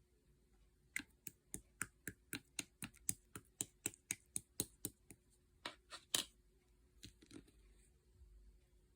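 Slime being squeezed and poked by hand, giving a quick run of sharp clicking pops, about four a second, that stops after about five seconds, followed by a few last pops.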